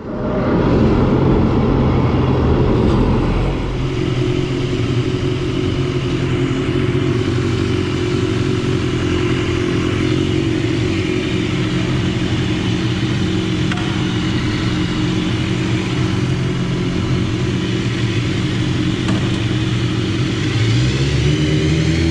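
BMW S1000RR's inline-four engine running steadily under way, its note holding level. About twenty seconds in the engine note rises as it accelerates.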